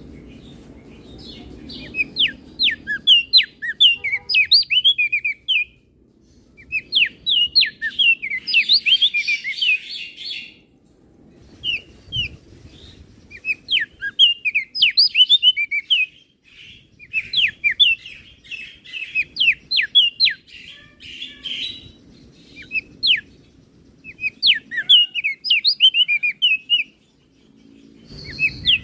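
Crested white-eye (opior jambul) singing: repeated phrases of rapid, sharp, high chirping notes, each phrase lasting a couple of seconds, with short pauses between them.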